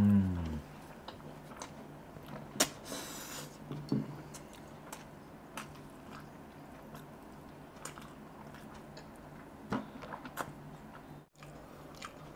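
Chewing and wet mouth sounds of a man eating saucy Schezwan noodles and a Manchurian ball by hand, with scattered soft smacks and clicks. A short falling hum of a voice comes right at the start.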